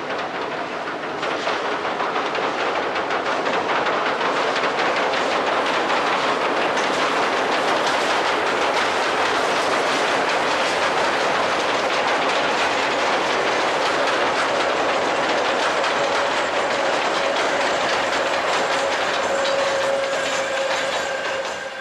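Passenger train hauled by a JNR Class C11 steam locomotive rolling across a steel girder bridge: a steady, loud rumble and clatter of wheels over rails and bridge deck. A thin squealing tone joins in near the end.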